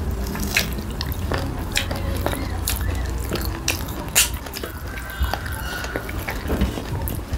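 Wet chewing and lip-smacking of people eating pork with their fingers, with many short sharp smacks and clicks scattered through, over a steady low hum.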